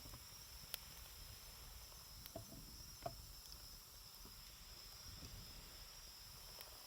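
Wood fire burning quietly, with three sharp crackling pops from the burning wood, the first about three-quarters of a second in and two more around two and three seconds in.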